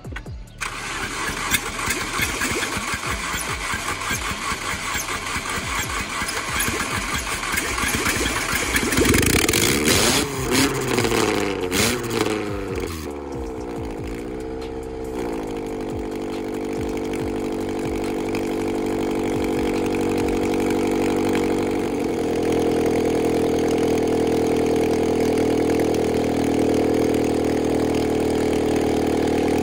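Nissan Sentra engine running with glass, a bolt and rocks dropped in through its oil filler. Its speed swings down and back up a few times about a third of the way in, then it settles into a steady run that gets a little louder later on.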